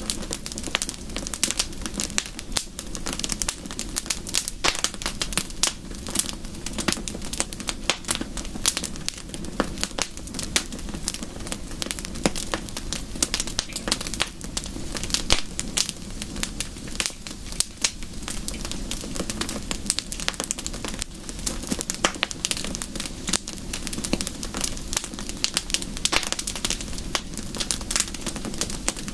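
Wood fire crackling: dense, irregular sharp pops and snaps over a steady hiss, without letting up.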